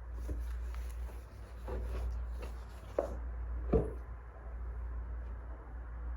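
Wood fire burning with a steady low rumble and a handful of scattered soft pops and knocks, the loudest a little over halfway through.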